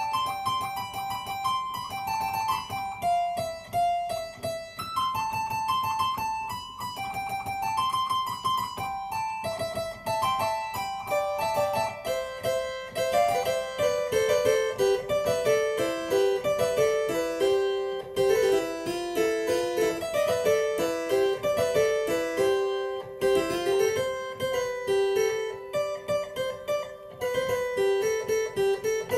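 Harpsichord playing a continuous stream of quick plucked notes. The line sits higher at first, then a little before halfway it moves lower into fast, busy figures.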